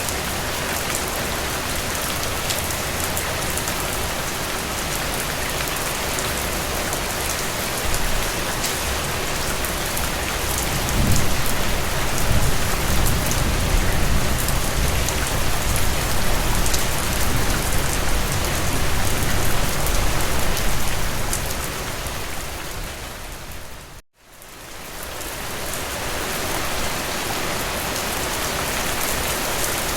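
Steady rain falling, with a dense patter of scattered drops. A low rumble swells under it for about ten seconds in the middle. About three-quarters of the way through, the sound fades down to a moment of silence and fades back up.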